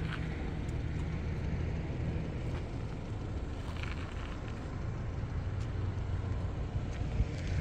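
Car driving: a steady low engine hum with road noise.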